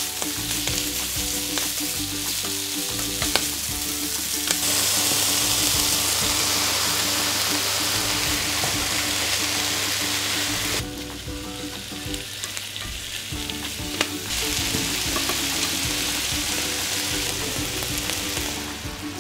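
Thin-sliced pork sizzling in a hot nonstick frying pan over medium heat as it is stir-fried with chopsticks. The sizzle drops off suddenly about ten seconds in, when sliced onion, carrot and green pepper go into the pan, then builds again as they fry with the pork.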